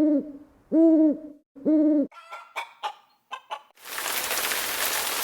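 An owl hooting three times, each hoot rising and falling in pitch. A quick run of short, higher calls follows. A steady rushing hiss starts about four seconds in.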